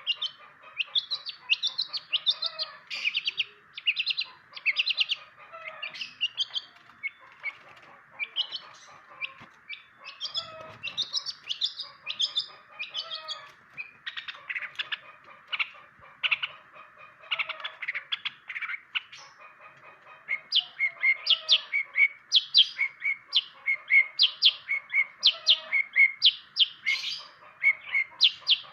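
Long-tailed shrike (cendet) singing a fast, varied run of sharp chirps and trills, which changes about two-thirds of the way in to a regular series of loud, evenly spaced chirps about two a second.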